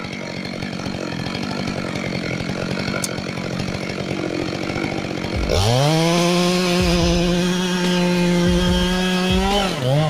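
Chainsaw running roughly at low speed, then revved up about halfway through and held at a steady high-pitched full-throttle whine for several seconds. Near the end it drops briefly and picks up again.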